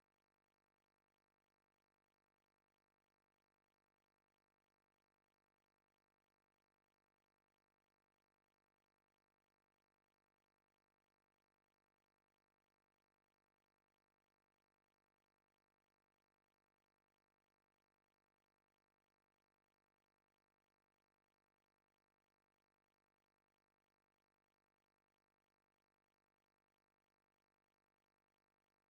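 Near silence: only a faint, unchanging electronic noise floor, with no sound events.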